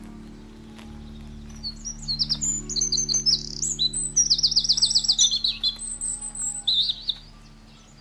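A songbird singing: a run of varied high chirps and fast, rattling trills that starts about a second and a half in and stops near the end.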